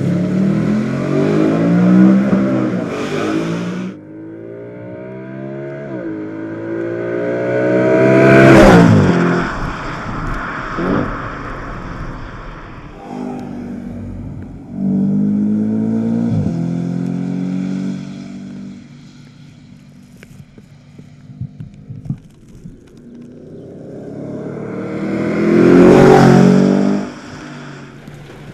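Audi RS4 Avant's 4.2-litre FSI V8 accelerating hard, its pitch climbing in steps through several upshifts. The car passes close by at speed about nine seconds in and again near the end, with fainter engine sound between the passes.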